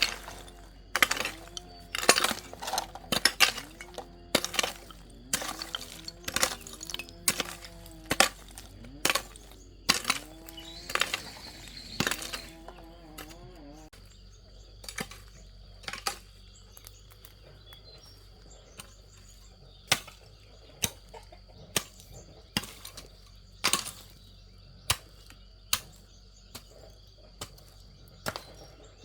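Repeated sharp strikes, as of chopping or hacking with a blade: a quick, dense run of blows, some ringing briefly, for the first half, then slower single strikes about once a second.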